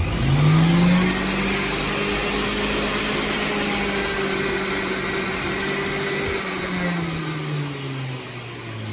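Electric juice extractor's motor switching on and spinning up with a rising hum, then running steadily with a loud whir. Near the end its pitch drops as the motor slows or takes a load.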